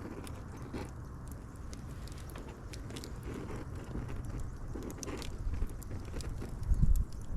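Wood fire crackling, with irregular sharp pops and snaps over a low, steady rumble of the flames, and a louder low thump near the end.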